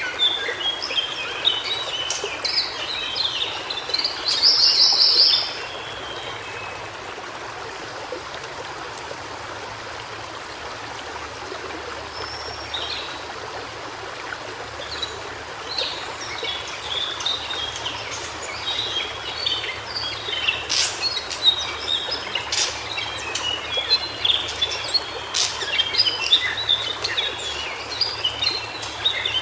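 White-browed shortwing singing jumbled, rapid high phrases, with a loud short trill about four seconds in and a lull in the middle before the song picks up again. A steady rush of a stream runs underneath, and a few sharp clicks come in the second half.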